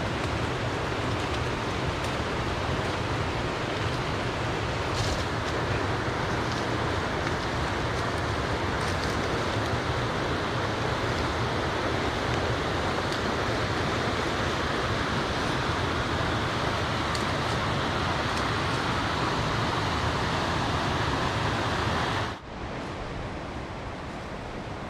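Waterfall water rushing in a steady, dense noise. About 22 seconds in it drops suddenly to a quieter, more distant rush.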